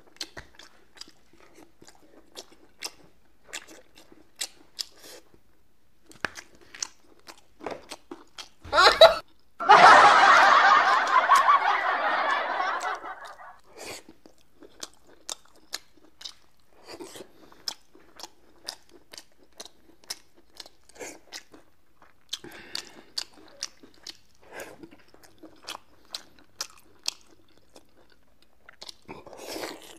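Close-miked eating sounds: wet chewing and mouth smacks as braised pork belly is eaten with chopsticks, heard as a string of sharp clicks one or two a second. About nine seconds in comes a short loud knock, then a loud noisy burst lasting about four seconds that fades away.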